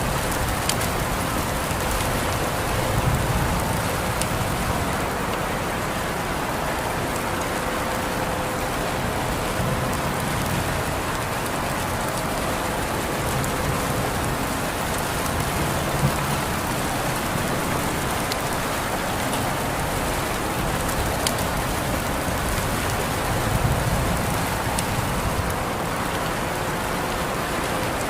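Steady rain falling, a constant hiss with scattered individual drops ticking now and then.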